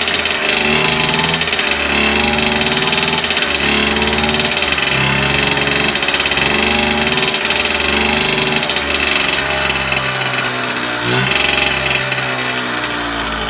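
Yamaha YB50's small air-cooled two-stroke single-cylinder engine running after a start-up check, its revs wandering up and down every second or two. About eleven seconds in it is briefly revved higher, then settles back.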